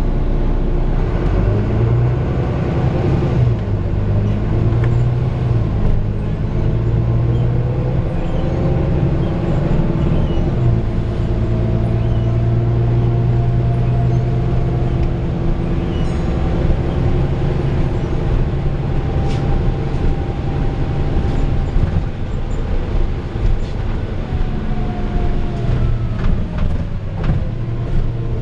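Volvo B9TL bus diesel engine running under way, heard from inside the bus. The engine note rises in the first few seconds, holds steady through the middle and falls away near the end, with a whine that rises and falls along with it.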